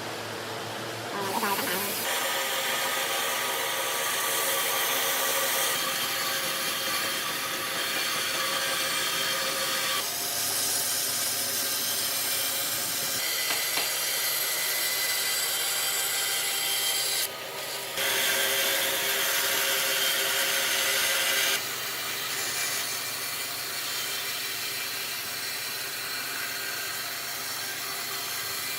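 Power tool working wood: a steady machine noise with a whine in it that shifts abruptly several times.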